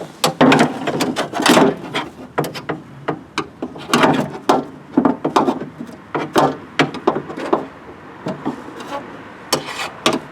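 Irregular clicks, knocks and scraping of hands working inside a car door shell, trying to unhook the latch rod from its plastic clip.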